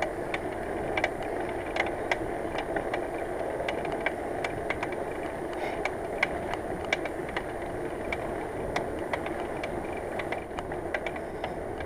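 Bicycle riding along a road: a steady rushing of tyres and air with irregular sharp clicks and rattles. The noise comes from a failing rear hub whose grease has turned to black sludge, and the rider finds it worrying.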